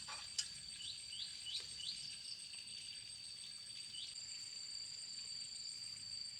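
Crickets trilling in a steady, high, unbroken drone, with a few short rising chirps in the first two seconds and one more about four seconds in, and a single sharp click about half a second in.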